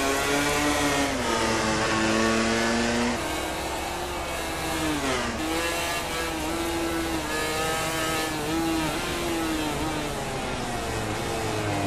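MotoGP race motorcycle engines at racing speed. The pitch holds high, drops sharply about five seconds in as the bike slows, then holds again and falls near the end.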